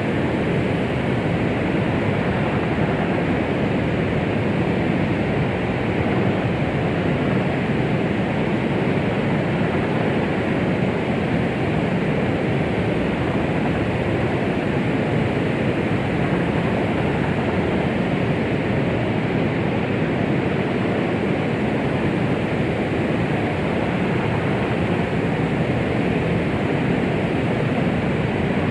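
Steady white-noise hiss used as a 'womb sound' to soothe a baby. It is heavier in the low and middle range, with little treble, and does not change.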